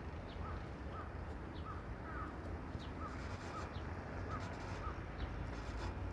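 Birds chirping, short calls repeated about twice a second, with a steady low rumble underneath.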